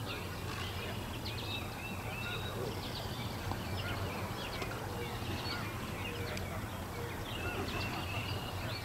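Small birds chirping, many short quick calls scattered throughout, over a steady low outdoor hum.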